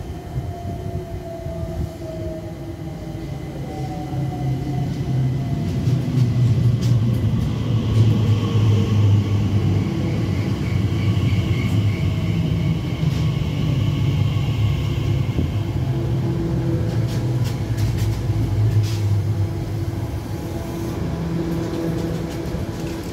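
Elizabeth line Class 345 electric train arriving and slowing along the platform. The whine of its traction motors falls in pitch as it brakes over the first few seconds, and a rumble of wheels on rail grows loudest about eight seconds in, then eases as the train creeps almost to a stop.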